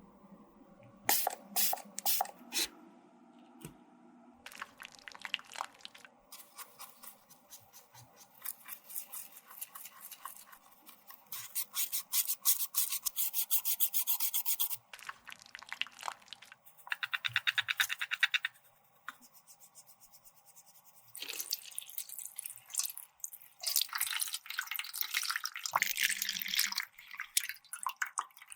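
Close-up scraping and tapping of a small tool working makeup product, in several runs of rapid strokes with short pauses between them.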